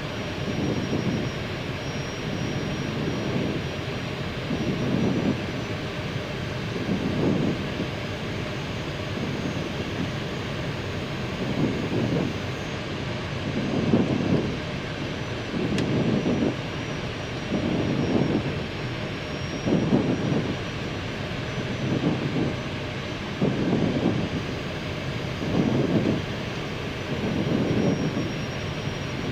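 Airbus A319 cockpit noise on final approach with gear down and full flaps: a steady rush of airflow and engine hum, swelling and fading about every two seconds, with a faint high steady whine over it.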